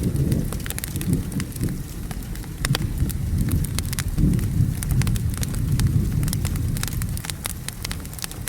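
Wood fire crackling with frequent sharp pops, over steady rain and a low rolling rumble of thunder that swells again about four seconds in.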